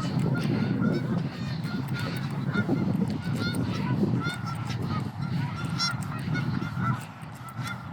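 A large flock of birds calling, many short honk-like calls overlapping constantly, over a low rumble.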